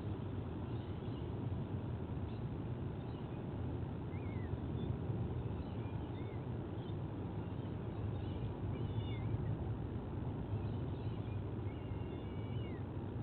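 Birds giving short, high chirps and little whistled glides over a steady low rumble, the calls coming more thickly in the second half.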